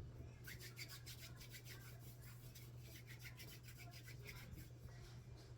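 Faint, quick rubbing strokes of hands working dumpling dough, over a steady low hum.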